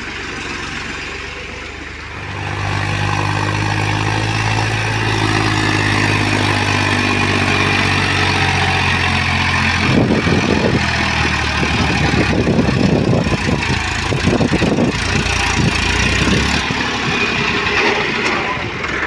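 Diesel engine of heavy farm or earthmoving machinery picking up from idle about two seconds in and running steadily at higher revs. From about halfway through, for some six seconds, a run of irregular knocks and rattles over the engine.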